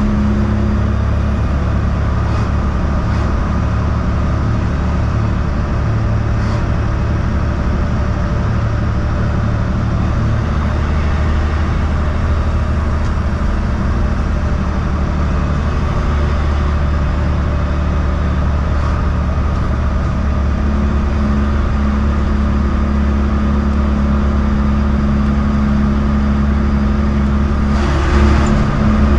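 Heavy semi truck's diesel engine running steadily at cruise, with road noise. There is a brief louder rush near the end.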